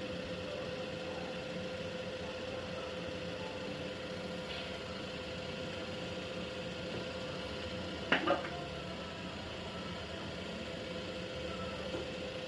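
Jack power sewing machine running steadily at slow speed while its bobbin winder fills a bobbin with thread: an even motor hum with a faint constant tone. A brief clatter comes about eight seconds in.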